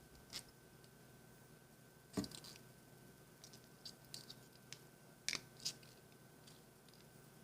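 Thin wire being bent and handled by hand: scattered small clicks and taps, the loudest about two seconds in and again twice a little past five seconds. A faint steady high whine runs underneath.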